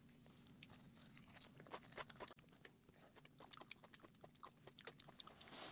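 Faint close-up chewing of raw olive flounder fin sashimi: many small, scattered mouth clicks, with a short hiss near the end.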